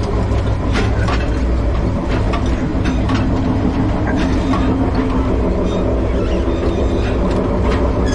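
Denali Star passenger train running on the rails: a steady low rumble, with irregular clicks of the wheels over the track and a steady drone coming in about halfway through.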